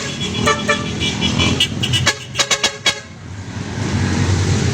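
Motorcycle and tricycle engines running, with short repeated horn toots over the first three seconds. A low engine drone grows louder near the end.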